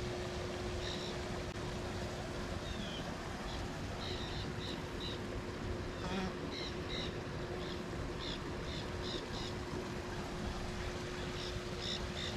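Small birds chirping in short, quick high notes, in little groups again and again, over a steady outdoor hiss and a faint steady hum.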